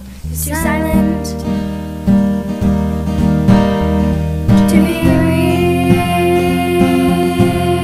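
Instrumental music: acoustic guitar strumming chords, coming in just after the start, with a change of chord about five seconds in.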